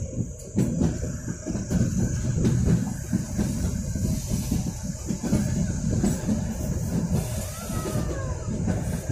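Kalka–Shimla narrow-gauge toy train running along the track, a steady uneven rumble and rattle of the carriage and wheels heard from inside the coach.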